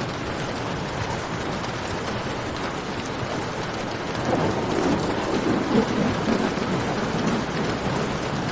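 Steady rain with the sparse pops of a crackling campfire. A louder, lower rush swells in about halfway through.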